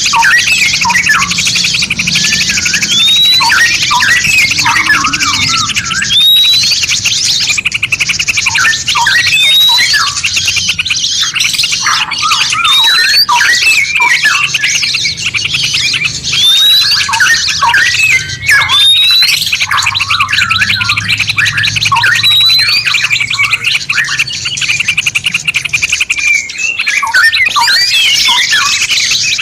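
Layered songbird chorus of several species calling and singing at once, with repeated upward-sweeping whistles every few seconds over a continuous fast high trill: a masteran recording for tutoring captive songbirds.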